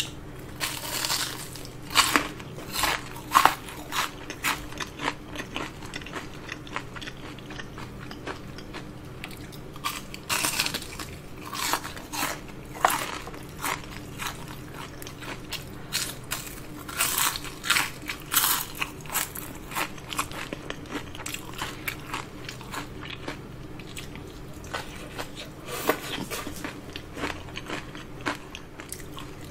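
Close-miked crunching and chewing of crispy battered fried shrimp, in several bouts of sharp crackly bites with quieter chewing between them.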